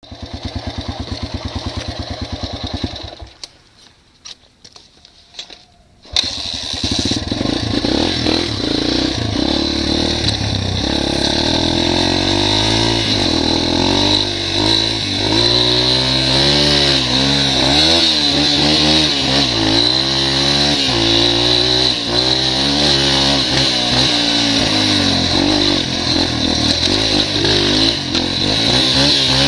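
Dirt bike engine, a single steady pulsing at first, drops away for about three seconds, then comes back suddenly about six seconds in. From there it is revved hard under load as it tries to climb a muddy hill, its pitch repeatedly rising and falling.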